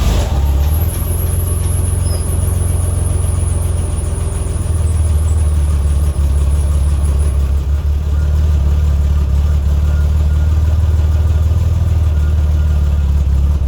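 1985 Chevy S10's carbureted 2.8-litre V6, just caught on a cold start, running loud and steady through a Borla muffler with no tailpipe after it. A faint high whine sits over it for the first several seconds.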